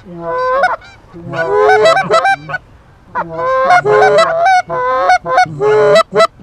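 Geese honking loudly in quick runs of short, broken honks and clucks. There is a brief burst at the start, then a longer run, then a dense run of calls through the second half.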